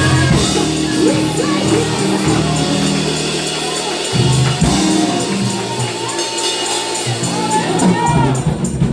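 Live gospel praise-and-worship music with bass and keyboard chords, a tambourine shaking a steady beat and a congregation singing along.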